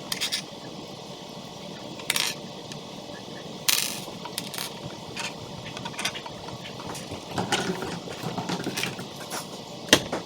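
Small hard construction-toy pieces clicking and clattering as they are handled and fitted together, with a few sharper knocks near the start, about two seconds in, near four seconds and just before the end, over a steady background hiss.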